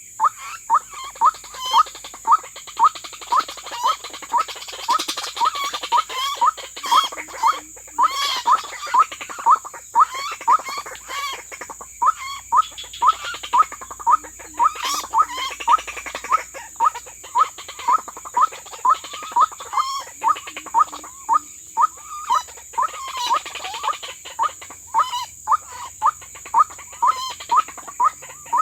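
White-breasted waterhen (ruak-ruak) calling: a short note repeated steadily about twice a second, over chirping insects.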